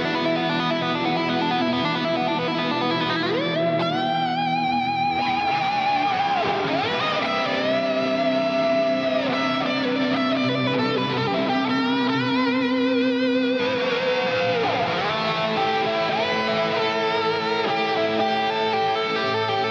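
Live band music without vocals: an electric guitar plays a lead melody of held notes that slide and waver, over sustained chords.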